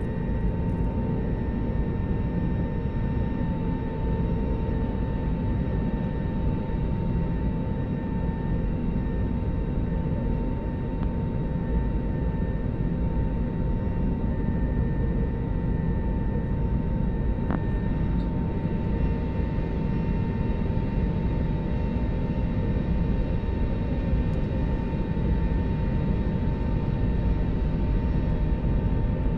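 Airliner cabin noise: the jet engines and cabin air running steadily, a low rumble with a constant whine on top.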